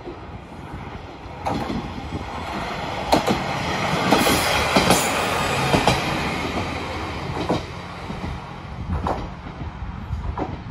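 JR Kyushu diesel railcar passing close by, its engine running under wheels clicking over rail joints. It is loudest a few seconds in, then fades as the car draws away, with a few more clicks near the end.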